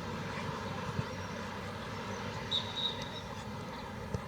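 Outdoor football-pitch ambience: a steady low rumble with a couple of dull thumps, and a short high whistle about two and a half seconds in.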